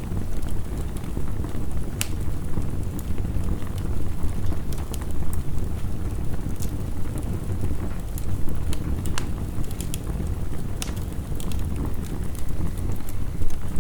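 Crackling wood fire, sharp pops scattered irregularly with a louder one about two seconds in, over a steady low rush of heavy rain.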